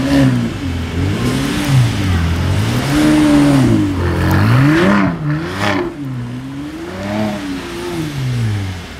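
Mercedes-AMG C43 Convertible's twin-turbo V6, through its AMG performance exhaust, revving up and down several times as the car slides and turns in snow, heard from outside the car. About five seconds in a sharp rev comes with a rush of spinning tyres and spraying snow.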